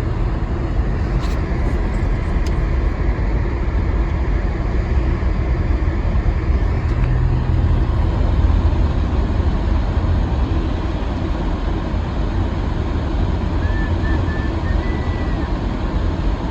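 Steady cabin noise of a vehicle driving on a snow-covered road: engine and tyre rumble, deep and continuous, with a couple of light clicks near the start.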